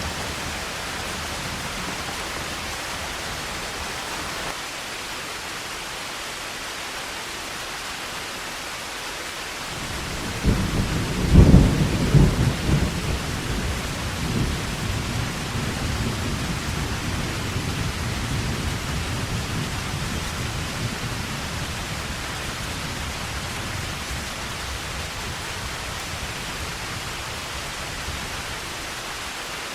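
Heavy rain falling steadily. About ten seconds in, a thunderclap breaks, then rumbles on and fades over the next several seconds.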